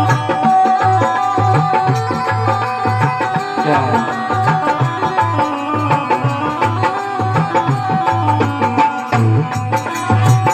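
Instrumental interlude of a Rajasthani folk bhajan: a melody with a long held note over a steady hand-drum beat, without singing.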